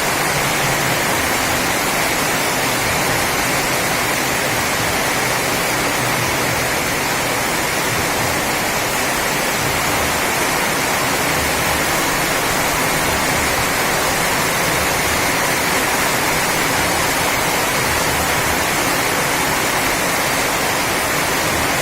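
Steady, unbroken heavy rain falling.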